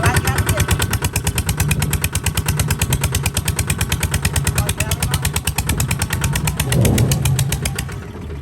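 Kubota RT140 DI single-cylinder diesel engine running steadily, with an even, rapid chugging beat and a brief louder swell near the end.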